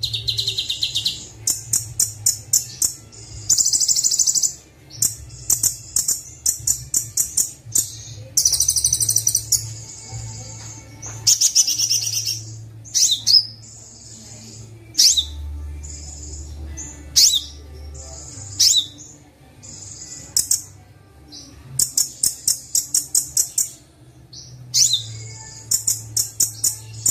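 Kolibri wulung sunbird song: rapid, very high-pitched chirps and buzzy trilled bursts, with quick sweeping notes, over a steady low hum. This is the full-repertoire song, mixed with imitated calls of other birds, that keepers play to train their birds.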